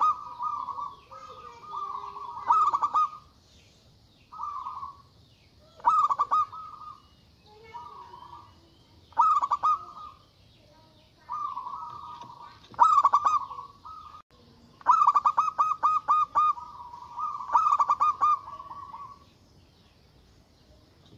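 Zebra dove (perkutut) cooing repeatedly: phrases of quick pulsing coos every two to three seconds, with the longest run of rapid notes coming a little past the middle.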